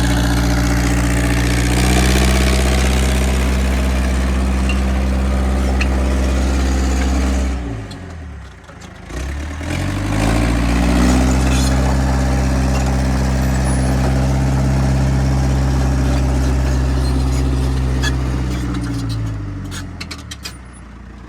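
Heavy engine running at high revs. About eight seconds in it drops to a low idle, then revs back up and holds steady, easing off near the end.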